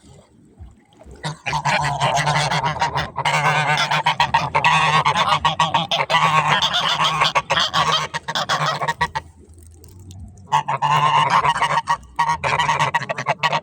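A flock of geese honking, many birds calling over one another at once. The chorus stops for about a second near nine seconds in, then starts again.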